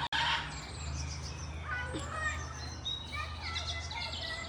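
Many birds chirping and whistling at once, short overlapping calls, some sliding up or down in pitch, over a steady low hum.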